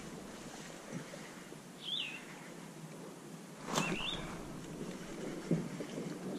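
A bird calling a short wavering note, twice, about two seconds apart, over a faint outdoor background. A sharp click comes with the second call.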